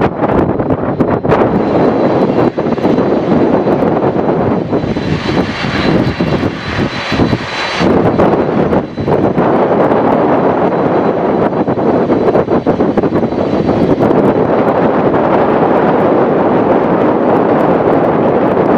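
Boeing 747-400D jet airliner's four engines running at high power during takeoff, a loud steady roar with a hissier stretch a few seconds in. Wind buffets the microphone with irregular rumbles and pops.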